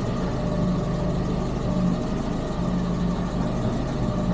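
Renault 8's engine idling steadily while its ignition timing is checked at idle.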